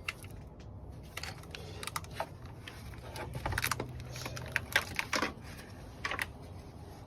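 Hands working small parts into place during reassembly: a scattering of sharp, irregular clicks and knocks.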